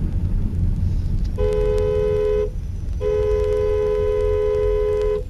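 A two-note car horn honking twice, a blast of about a second and then a longer one of about two seconds, over the low rumble of a car on the road.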